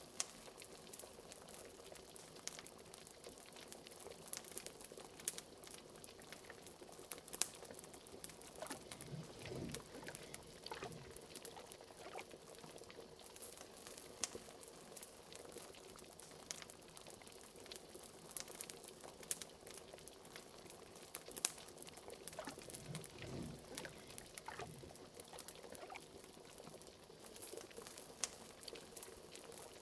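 Liquid simmering and bubbling in a pot, standing in for a cauldron: many small pops, with a few deeper bloops from larger bubbles about a third of the way in and again past two-thirds.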